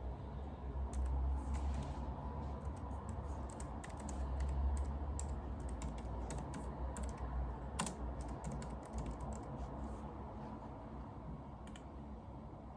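Typing on a computer keyboard: quick, irregular key clicks that thin out near the end, over a low rumble that swells twice.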